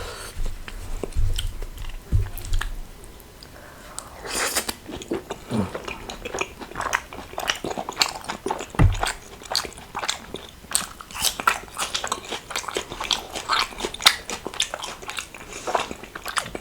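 A person eating close to the microphone, biting and chewing dum aloo with rumali roti. A few low thumps come in the first seconds. From about four seconds in there is a dense run of quick mouth clicks and chewing noises.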